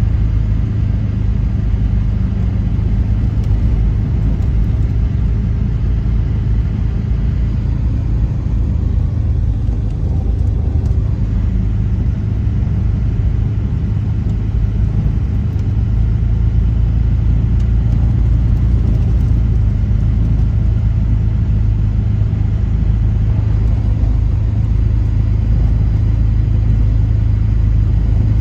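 A vehicle's engine and tyres heard from inside the cabin while driving slowly: a steady low drone with road rumble underneath.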